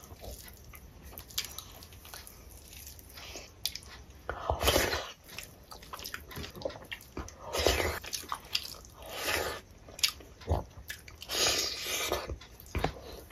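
Close-miked eating by hand: wet chewing and lip smacking on rice, curry and fish, with several louder mouthfuls every couple of seconds.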